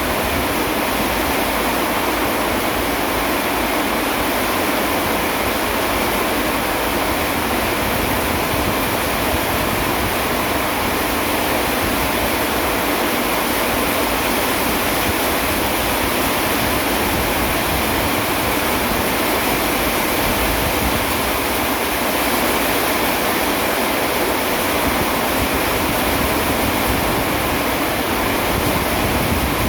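Steady rain, an even rushing hiss that holds the same level throughout.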